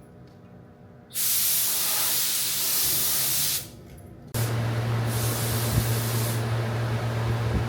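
Compressed-air paint spray gun spraying in two long hissing passes, the first starting about a second in and the second from about four and a half seconds, laying down a base coat. A steady low hum comes in with the second pass.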